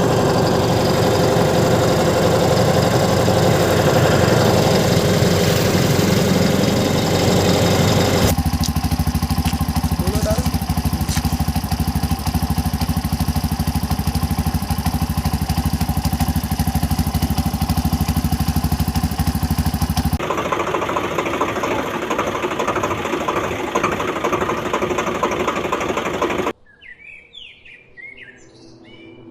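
Vehicle engine sound effects running steadily, cut abruptly between different engine sounds a few times, then dropping away to a few bird chirps near the end.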